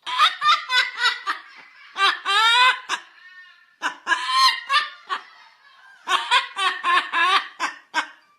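High-pitched laughing in four bouts of quick, rhythmic ha-ha pulses, with short pauses between the bouts.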